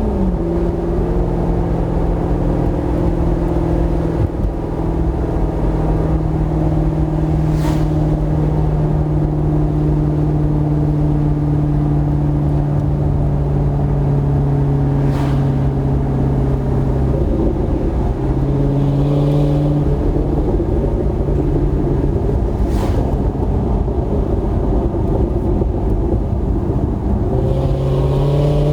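2008 Maserati GranTurismo's V8 breathing through a Kreissieg aftermarket exhaust, running at steady revs after settling at the start; the pitch shifts briefly about two-thirds of the way through and climbs again near the end. Faint sharp clicks recur about every seven and a half seconds.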